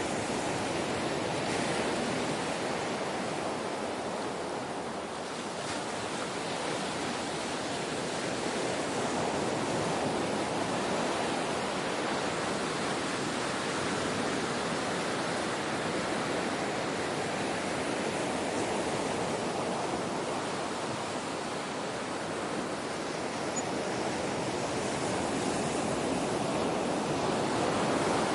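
Ocean surf washing in continuously: a steady rush of breaking waves that swells and eases slowly, louder about two seconds in, around ten seconds and again near the end.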